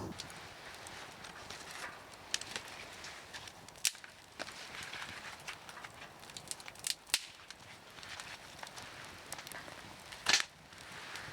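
Burning firewood crackling, with a steady hiss and sharp pops and snaps at irregular intervals; the loudest snap comes near the end.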